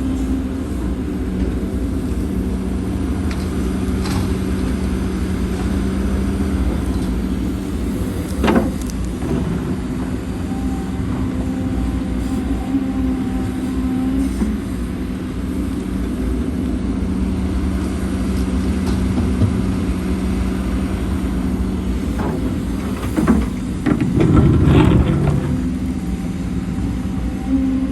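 Heavy earthmoving machinery's diesel engine running steadily, with a sharp clank about eight seconds in and a louder, rough rumbling stretch with knocks near the end.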